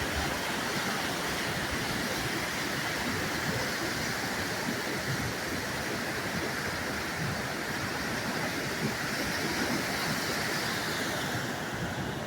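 Steady rushing of a river in flood during a hurricane, an even roar of fast floodwater.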